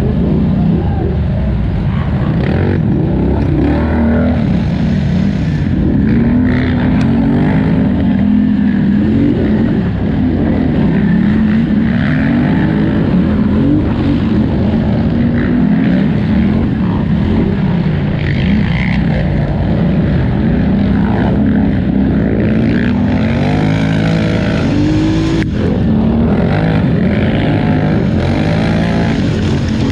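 2018 Polaris Scrambler XP 1000 ATV engine racing under hard throttle, the revs rising and falling again and again. There is one sharp knock about 25 seconds in.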